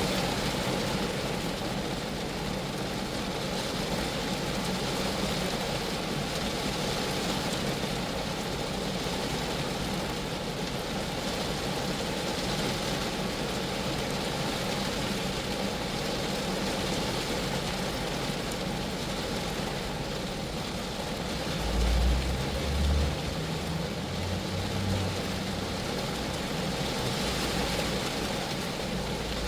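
Steady rain falling on a Geo Metro car, an even hiss of drops. A few brief low rumbles come through about three-quarters of the way in.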